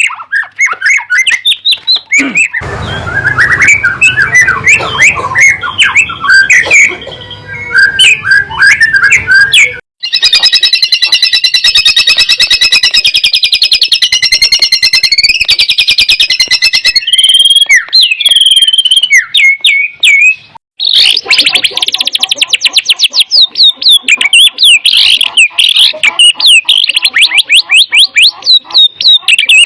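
White-rumped shama (murai batu) song, loud: varied whistled phrases and very fast chattering trills, broken by abrupt cuts about 2.5, 10 and 21 seconds in, where separate recordings are joined.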